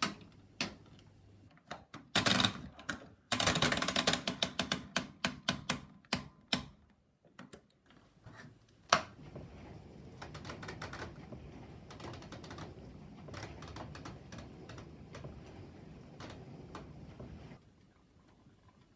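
Old washing machine's rotary program selector dial being turned by hand, clicking rapidly through the timer's program positions in quick runs. About nine seconds in there is one sharp click, followed by a faint steady noise with occasional ticks that stops near the end.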